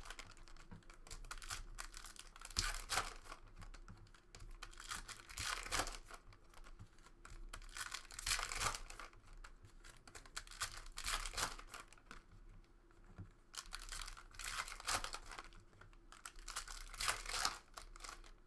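Trading card pack wrappers being torn open and crinkled, with cards handled in between. The crinkling and tearing come in bursts every few seconds.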